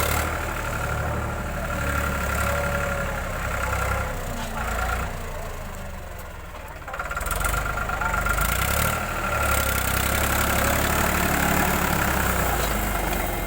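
Tractor engine running steadily with a thin steady whine over it. It eases off about five seconds in and picks up again about two seconds later.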